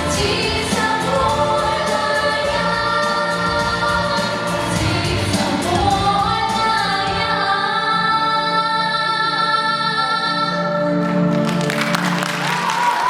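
A vocal ensemble singing the end of a pop song over musical accompaniment, holding a long final chord. The audience starts applauding near the end.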